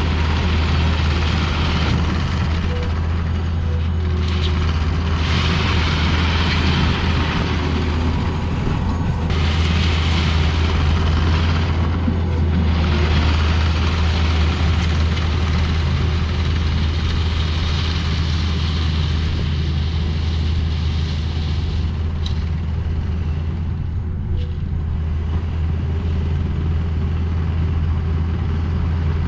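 Heavy diesel engine running at a steady speed: a constant low drone, with a hissing noise over it that swells and fades every few seconds.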